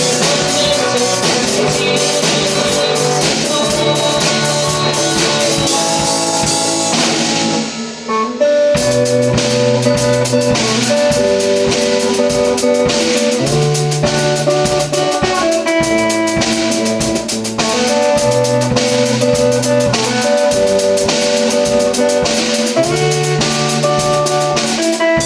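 Instrumental passage of a band's song: guitar over a drum kit, with sustained melody notes. The music thins out briefly about eight seconds in, then the full band comes back in.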